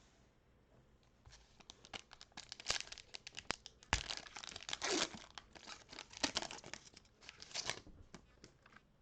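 A foil trading-card pack wrapper being torn open and crinkled by hand, with a quick run of crackling tears and crumples from about a second in until near the end.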